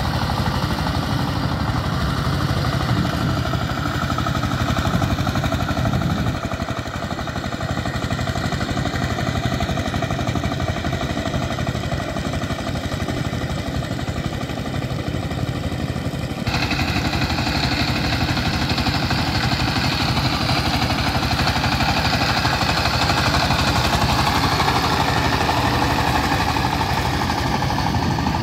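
Power tiller engine running steadily while the machine works through muddy water. The engine's tone changes abruptly twice, about six and about sixteen seconds in.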